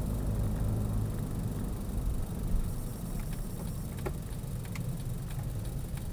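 Car driving, heard from inside the cabin: a steady low rumble of engine and road noise, with a few faint scattered clicks in the second half.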